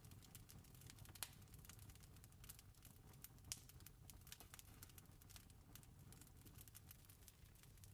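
Faint wood campfire crackling: irregular small snaps and pops over a low rumble, with two sharper pops about a second in and midway through.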